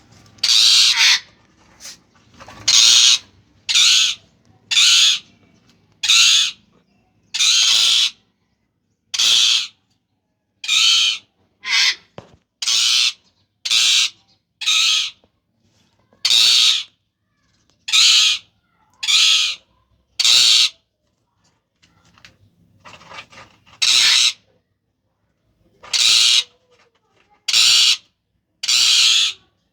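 Indian ringneck parrot calling loudly: about twenty short, harsh squawks, roughly one a second, with a pause of a few seconds about two-thirds of the way through.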